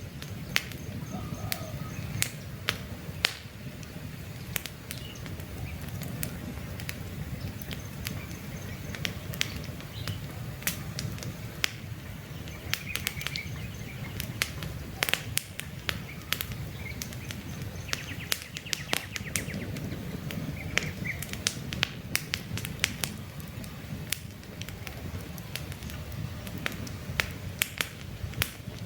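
Campfire logs crackling with frequent sharp pops over the low steady rumble of the flames. A few faint bird chirps come through now and then.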